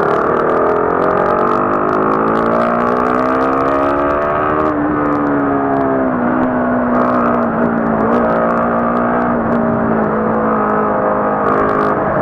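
Motorcycle engine under way: its note climbs steadily for about five seconds as it accelerates, then falls back and holds steady, over constant wind and road rush.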